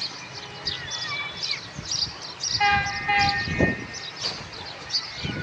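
Diesel locomotive horn, a GEU-40's, sounding one short blast of under a second about two and a half seconds in, over a low rumble, with birds chirping throughout.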